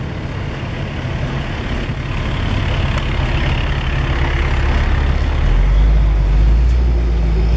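Engines of classic cars driving slowly past in a line: a steady low running rumble that grows louder about five and a half seconds in as a car comes close.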